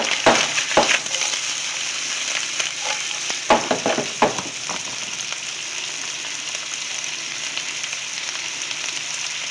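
Food frying in a hot pan with a steady sizzle, and several sharp knocks and scrapes of a utensil against the pan in the first five seconds.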